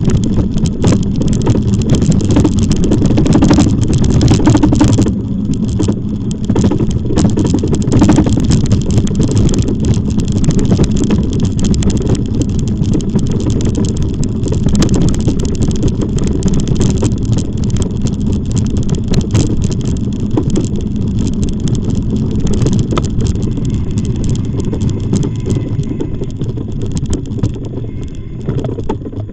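Loud wind buffeting on the microphone with tyre and road rumble from an e-bike being ridden: a continuous low rumble with crackle, easing slightly near the end.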